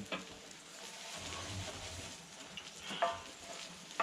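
Kimchi pancake batter sizzling in freshly added oil on a cast-iron cauldron lid over a wood fire, with a brief sharper sound about three seconds in.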